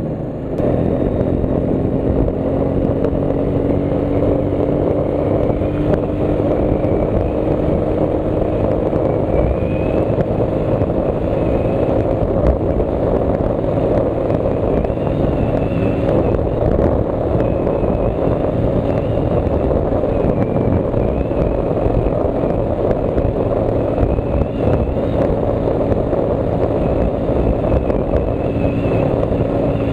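Royal Enfield Meteor 350's single-cylinder engine pulling at wide-open throttle toward its top speed of about 125 km/h. Its note climbs slowly over the first ten seconds, then holds steady, under loud wind rush on the microphone.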